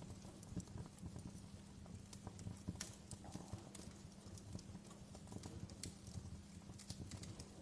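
Wood fire crackling in a fireplace: irregular sharp pops and snaps of burning logs over a faint, steady low rumble.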